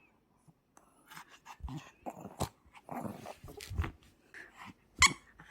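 Pomeranian playing with a toy, biting and worrying it, making irregular scuffling and mouthing noises. A sharp knock comes about five seconds in.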